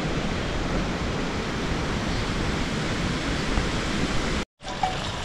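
Steady, even rushing noise of heavy rain. About four and a half seconds in it cuts off abruptly, and after a brief silence a few short ringing notes follow.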